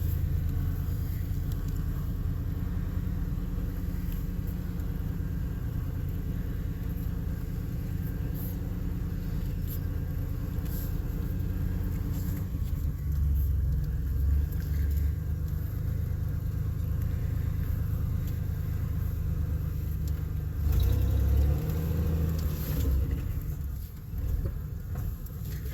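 Chevrolet 4.3 V6 engine running in a 1988 Chevy pickup as it drives slowly in low-range four-wheel drive, a steady low rumble. The rumble gets louder twice, about halfway through and near the end.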